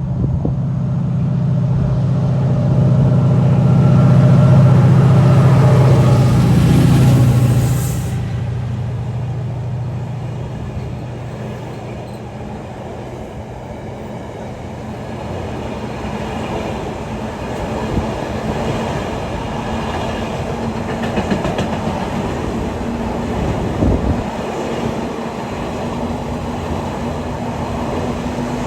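Direct Rail Services diesel freight train passing. The locomotive's engine hum is loudest about four to seven seconds in and falls away sharply at about eight seconds. After that the wagons roll past steadily, with occasional wheel knocks over the rail joints.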